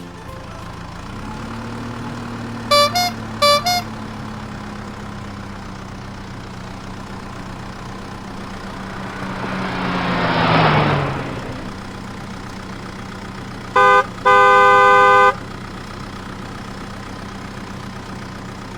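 Cartoon vehicle sound effects. A motor hums steadily throughout, with short horn toots about three seconds in. Near the middle a vehicle swells past with falling pitch, and around fourteen seconds a brief toot is followed by a longer horn blast.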